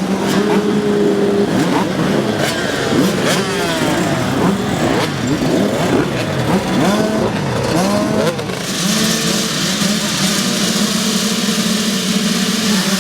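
Several small two-stroke youth motocross bikes (50cc and 65cc) revving hard, their engine notes rising and falling over one another as they accelerate and shift. About eight and a half seconds in, the sound turns into a steadier drone with more hiss.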